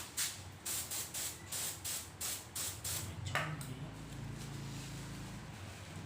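Spray paint hissing out in short bursts, about three a second, for the first three seconds; after that a steady low hum.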